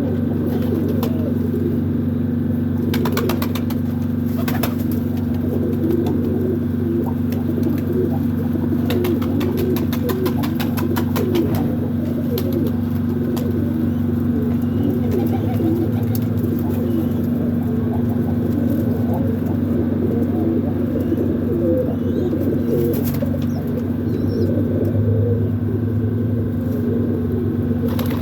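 Domestic pigeons cooing, with many short repeated coos over a steady low hum. A few short bursts of clatter come about three seconds in and again around ten seconds.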